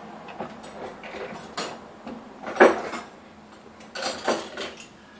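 Dishwasher rack and the dishes and cutlery in it clattering and knocking a few times as it is handled and climbed on, loudest about two and a half seconds in.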